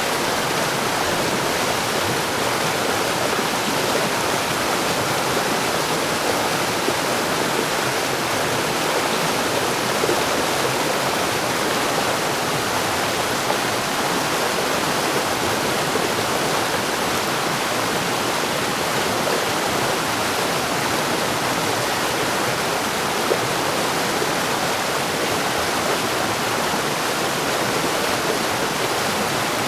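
Mountain stream running steadily: a constant rush of water over rocks, without pauses or changes.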